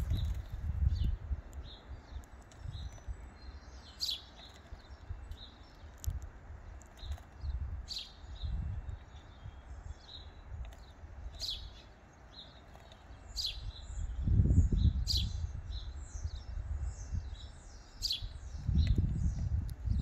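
Small birds chirping: sharp chirps every second or two with softer twittering between, over a low rumble that swells twice in the second half.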